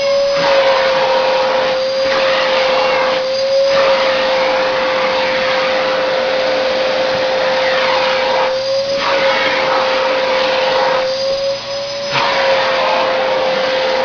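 Vacuum cleaner running steadily as it is used to vacuum a cat's fur: a constant motor hum over rushing air. The rush of air drops away for a moment several times.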